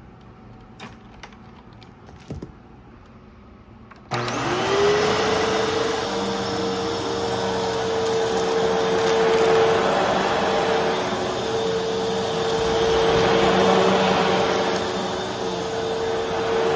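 Fantom Fury Special Edition bagless vacuum cleaner switched on about four seconds in: the motor whine rises quickly and settles into steady running with a loud rush of air. A few small clicks come before it starts.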